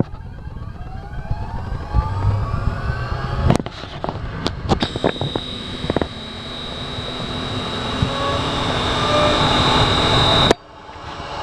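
Wood CNC router spindle motor spinning up with a rising whine, then running at a steady high whine that grows louder, with a few sharp clicks. It cuts off suddenly near the end.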